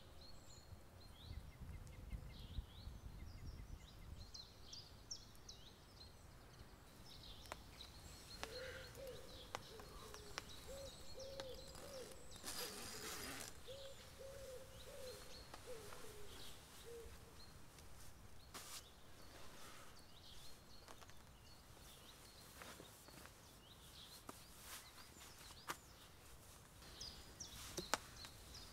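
Faint woodland ambience with small birds chirping, and a lower warbling bird call that runs for several seconds in the middle. Scattered faint ticks throughout.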